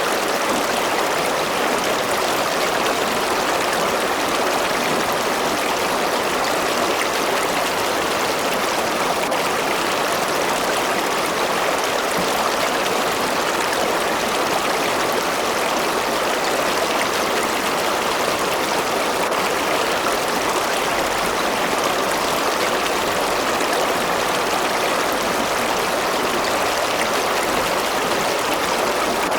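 A river or stream running steadily over rocks: an even, unbroken rushing of water.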